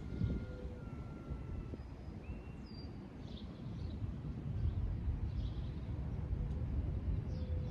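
Wind buffeting the microphone in a steady low rumble that grows stronger about halfway through, with birds chirping and whistling faintly in the background.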